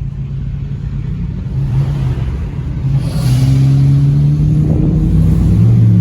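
A vehicle engine accelerating, getting louder about halfway through as its pitch slowly rises.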